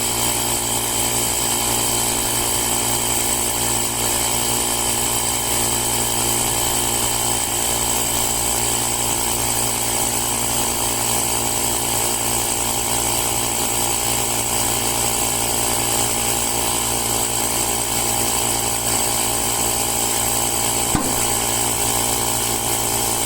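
Artisan Tool AT-AP01b rechargeable air compressor running steadily, a small motor-driven pump with an even, unchanging hum and hiss, with a brief click near the end.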